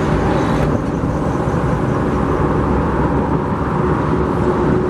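Steady motor vehicle noise, a constant rumble with a faint engine hum.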